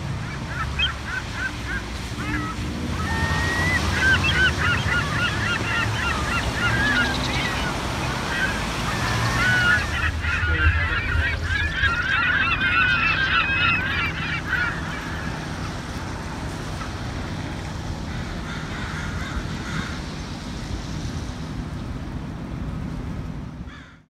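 A flock of birds calling, many short honking cries overlapping, thickest in the first half and thinning out later, over a steady low rumble.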